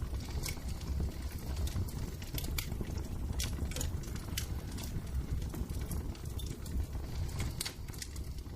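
Wood fire crackling in a fireplace, with irregular sharp pops and snaps over a low steady rumble.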